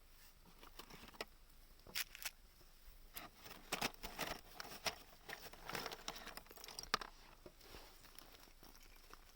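Small wood fire crackling, with irregular sharp pops and snaps that come thickest through the middle.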